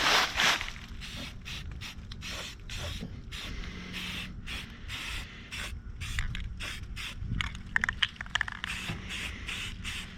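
Rust-Oleum aerosol spray paint can hissing in short, broken spurts, with a few sharp clicks near the end.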